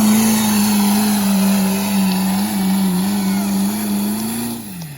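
Turbo diesel pickup truck engine running hard at full throttle under the load of a pulling sled, its pitch held high and steady. Near the end the revs drop sharply as the pull ends.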